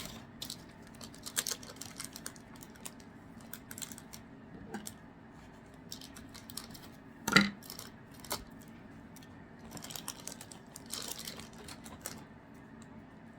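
Trading cards being handled on a table: scattered light clicks and taps as cards are picked up and set down, with one louder knock about seven seconds in.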